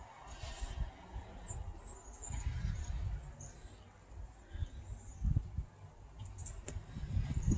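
Small birds giving short, high chirps, a cluster about a second and a half in and a few more later, over an uneven low rumble on the microphone.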